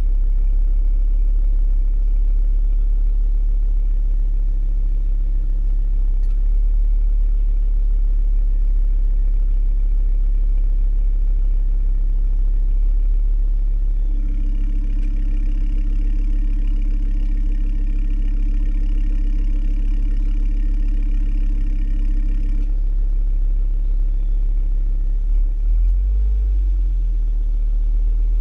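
Ford Focus ST Mk2's turbocharged 2.5-litre five-cylinder idling steadily after a cold start. About halfway through, a higher steady hum joins the engine note for around eight seconds, then cuts off suddenly.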